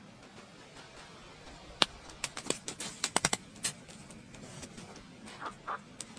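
A scattered series of sharp clicks and knocks, the loudest about two seconds in and a quick run of them around three seconds, with two short softer sounds near the end.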